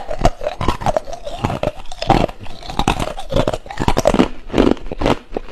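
Ice being bitten and crunched between teeth close to the microphone: a quick, uneven run of sharp cracks and crunches.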